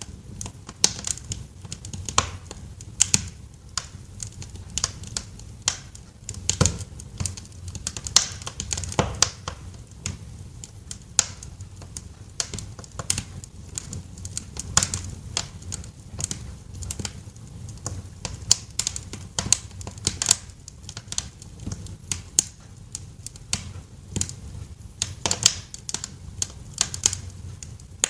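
Wood fire crackling and popping in a fireplace: irregular sharp snaps, several a second, some louder than others, over a low steady rumble of the flames.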